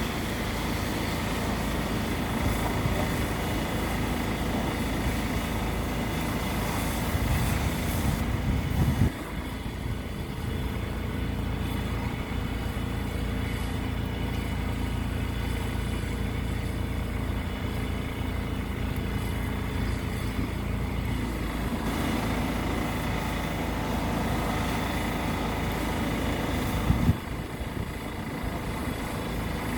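Heavy vehicle engine running steadily, with abrupt shifts in the sound about nine seconds in and again near the end.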